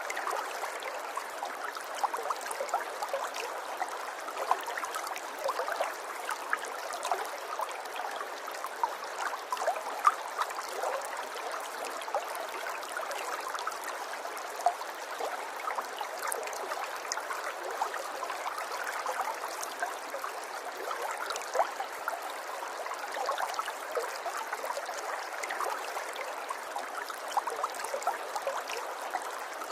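River water flowing and babbling over stones, a steady rush dotted with small splashes and gurgles.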